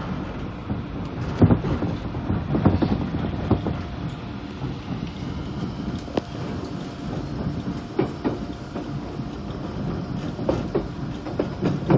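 Seoul Metro Line 1 VVVF-GTO electric train running at speed, heard from inside the car. A steady rumble of wheels on rail, with irregular clacks over rail joints; the loudest comes about a second and a half in.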